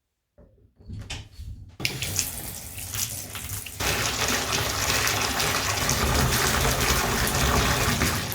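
Water running from a tap into a bathtub. It starts about a second or two in, grows into a full, steady gush a few seconds later, and stops near the end.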